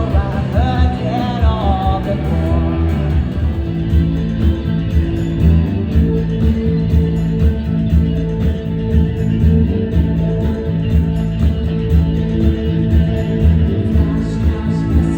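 Live rock band playing loudly: a sung vocal line ends about two seconds in. Electric guitar, bass and drums carry on as a steady instrumental passage.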